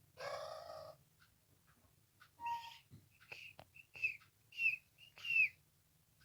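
Pet parrot calling: a harsh screech of about a second, then a string of short calls, several of them falling in pitch.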